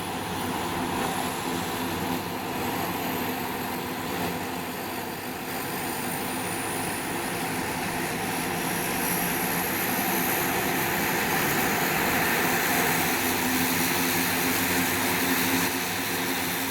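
Cessna Conquest II's Garrett TPE331 turboprop engines running: a steady drone with a high turbine whine that climbs slowly in pitch as the sound grows a little louder.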